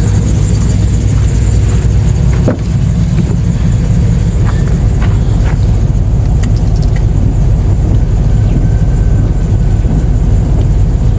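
Dodge Ram pickup's V8 engine idling steadily while warming up after a cold start, with a few light clicks.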